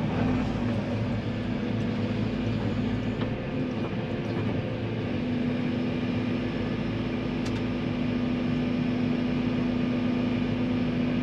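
Tracked excavator's diesel engine running steadily as the machine works, its note easing briefly about four seconds in and then holding steady again.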